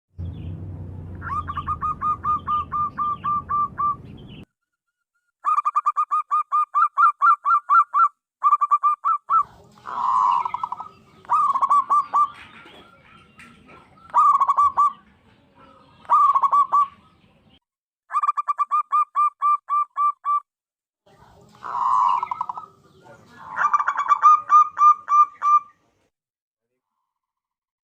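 Zebra dove calling: repeated phrases of rapid staccato cooing notes, each phrase a quick run of pulses, with short silences between phrases. A low hum runs under the first phrase.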